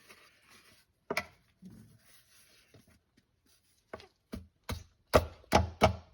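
Sharp knocks, one about a second in and then a quickening run of about six from four seconds on: the new transmission filter being tapped up into its seal in the 4T65E transmission to seat it.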